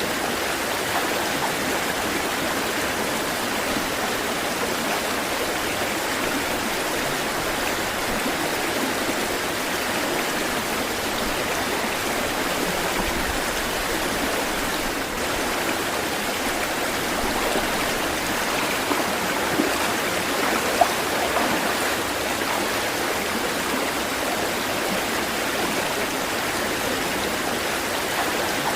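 Steady rush of running water, even and unbroken, with a few brief louder splashes about two-thirds of the way through.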